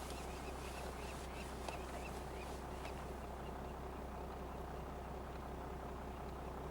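A vehicle engine idling steadily, a low even hum, with a few faint high chirps in the first three seconds.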